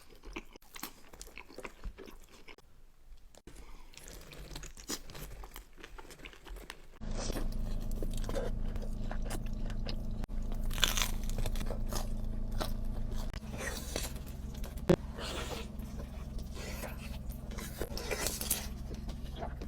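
Close-miked eating sounds: bites and chewing with crunching. About a third of the way in the sound changes abruptly to a louder passage with a steady low hum underneath and louder crunching bites.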